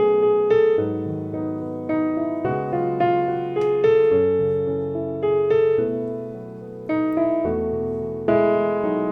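Soft background piano music: slow chords and melody notes struck about once a second, each dying away before the next.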